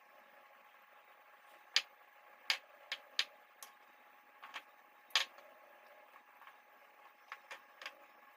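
Irregular sharp clicks and knocks, about ten of them scattered over several seconds and loudest around two and five seconds in, over a faint steady hum.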